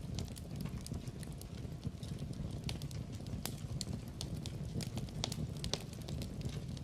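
Wood burning in a fireplace, crackling with frequent irregular sharp snaps and pops over a low steady rumble of the flames.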